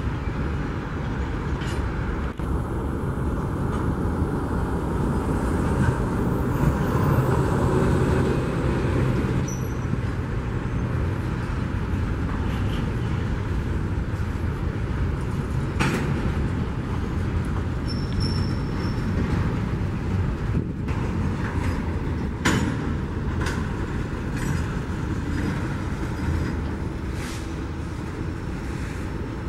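A BNSF double-stack intermodal container train rolling past, a steady rumble of wheels on rail with a couple of sharp clanks and brief faint wheel squeals.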